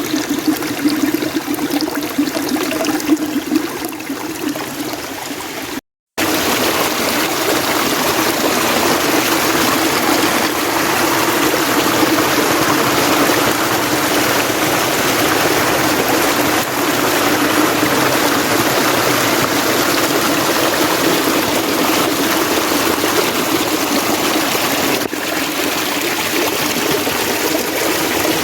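Mountain stream water flowing steadily over rocks. About six seconds in it cuts out for a moment, then carries on with a slightly more even rush.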